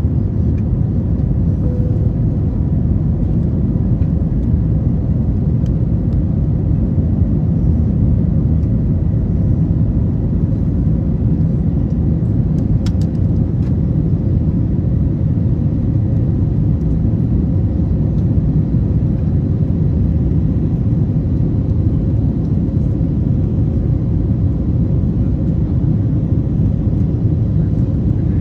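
Steady low rumble inside the cabin of an Airbus A321neo in flight: airflow over the fuselage and the CFM LEAP-1A engines running.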